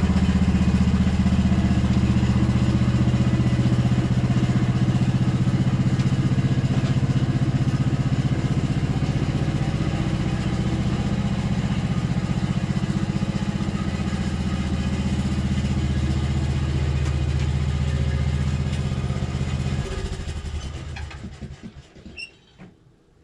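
An engine running steadily at a constant speed, then shut off about twenty seconds in and dying away to quiet.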